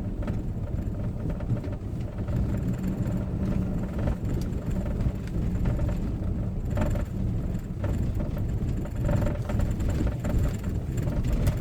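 Car driving on a snow-packed road, heard from inside the cabin: a steady low engine and tyre rumble, with a couple of faint knocks partway through.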